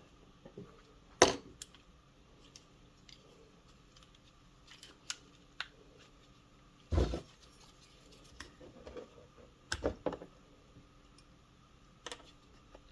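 Scattered clicks and light knocks of tools and small carburetor parts being handled during disassembly, with a heavier thump about seven seconds in and a quick double knock near the end.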